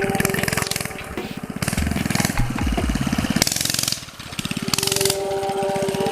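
Pit bike's small engine running and revving, easing off about four seconds in and then picking up again.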